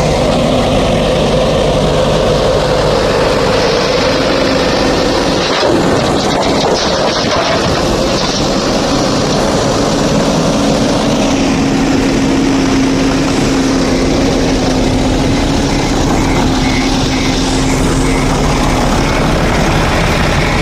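Diesel engine of a JCB 3DX backhoe loader running under load while working sand and gravel, a steady heavy drone whose pitch shifts as the revs change. A faint repeated beeping comes in near the end.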